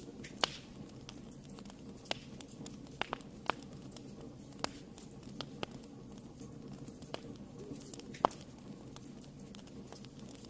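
Wood fire burning in a fireplace: a steady low rumble of flames with irregular crackles and sharp pops, the loudest about half a second in and about eight seconds in.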